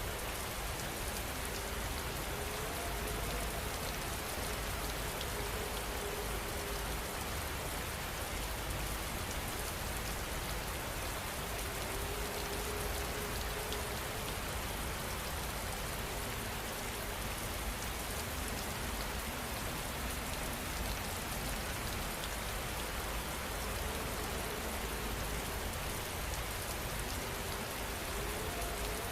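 Steady heavy rain falling, an even hiss of drops on surfaces with a low rumble underneath.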